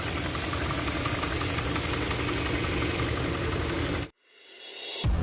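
Hyundai Sonata DN8's G2.5 MPI four-cylinder engine running with a rapid internal knock, the engine-knocking noise whose cause the engine is torn down to find. The engine sound cuts off abruptly about four seconds in.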